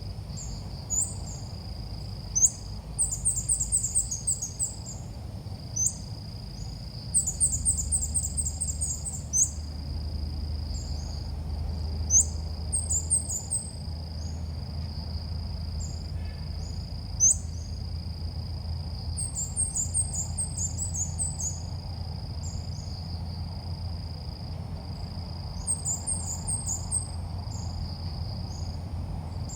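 Ốc mít birds calling: repeated quick, high phrases of short falling chirps, several times, as a lure call for trapping. A steady thin high tone and a low rumble run underneath.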